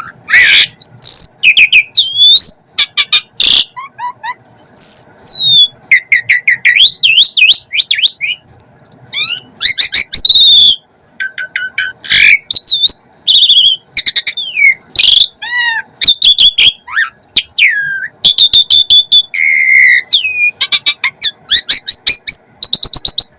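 Asian pied starling (jalak suren) singing a loud, rambling song of many different phrases: clear whistles, rising and falling slurs, fast trills and harsh grating notes, with only brief gaps.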